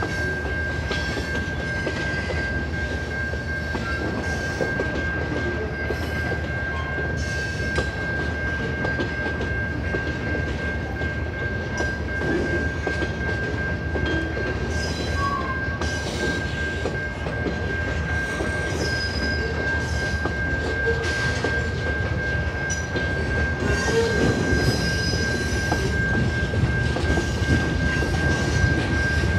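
Freight cars rolling past at a grade crossing: the rumble of steel wheels on rail with irregular clacks over the joints. A steady high tone runs under it, and the rumble grows a little louder near the end.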